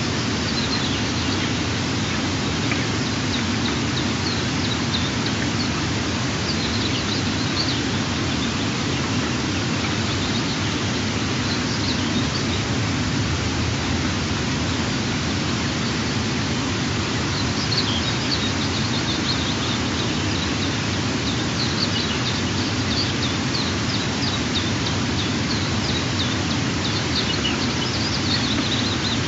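Steady rushing noise with faint, short, high bird chirps coming now and then.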